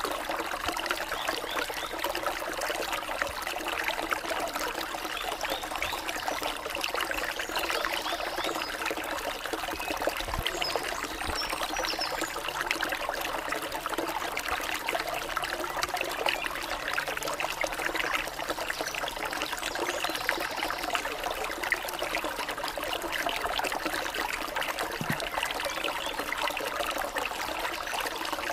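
A small stream trickling steadily.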